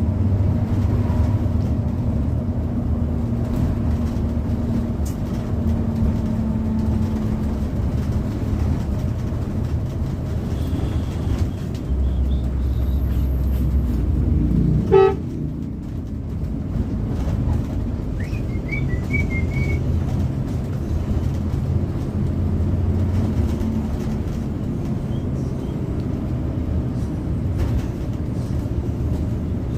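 A bus engine drones steadily with road noise while driving. About halfway through there is one short horn toot, the loudest moment.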